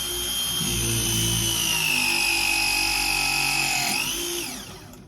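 Milwaukee battery-powered ProPress tool pressing a copper fitting: its motor whines steadily, sinking slowly in pitch as the jaws close under load, then winds down about four seconds in as the press cycle ends.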